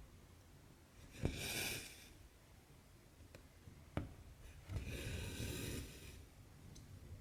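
Stitching on Aida cloth: the needle goes through with a sharp tick, and twice a cotton thread is pulled through the fabric with a short rasp lasting about half a second to a second. A few fainter ticks come in between.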